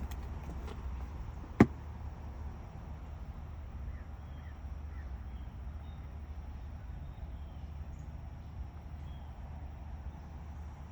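Steady low outdoor rumble with one sharp click about a second and a half in, and a few faint bird chirps later on.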